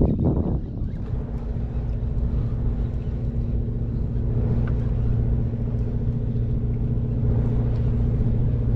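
Small outboard motor running steadily at a constant engine speed, with a short noisy burst at the very start.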